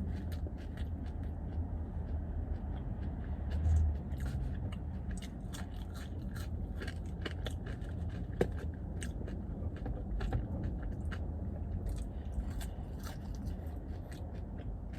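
A person chewing and eating seasoned fries close to the microphone, with many small wet, crackly mouth clicks over a steady low rumble.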